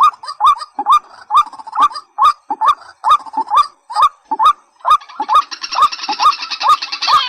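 Rail calls of the kind played for waterhens and watercocks: a short rising note repeated a little over twice a second, with a second, harsher and denser calling joining in about five seconds in.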